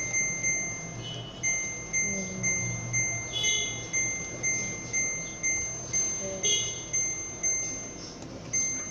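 Washing machine control panel beeping: a high, shrill electronic beep repeating about twice a second, with a brief break just after a second in.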